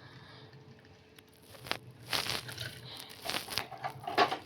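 Plastic toy being handled: a string of short clicks and crinkly rustles, starting after a quiet second or so, as a stuck toy car is worked free of the plastic hauler playset.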